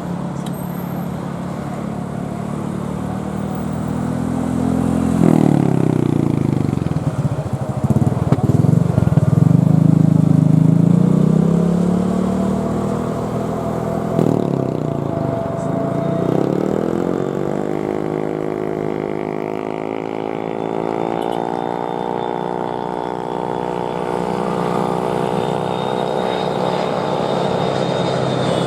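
Airliner jet engines passing, a rumble that swells to its loudest about a third of the way in and builds again near the end, its tone sweeping up and down as the aircraft moves.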